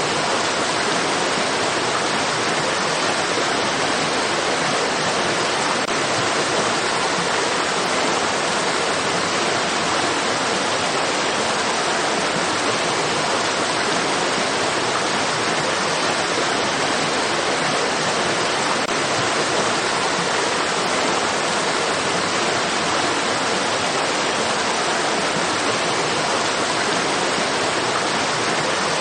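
Steady rushing of flowing stream water: an even hiss that neither rises nor falls.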